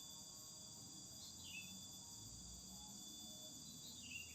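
Faint, steady high-pitched drone of insects such as crickets, with a couple of short falling bird chirps about a second in and again near the end.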